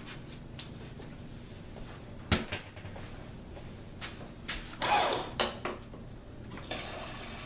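Kitchen handling sounds: a single sharp knock, then a short clatter. Near the end a tap starts running steadily, as the vinegar mix is topped up with water.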